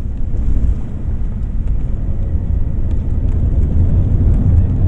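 Airliner noise: a steady low rumble with a few faint clicks.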